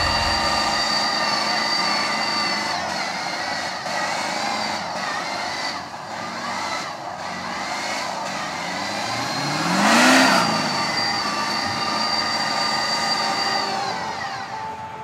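Truck engines running with a steady whine, and one vehicle rising and falling in pitch about ten seconds in, loudest as it goes by.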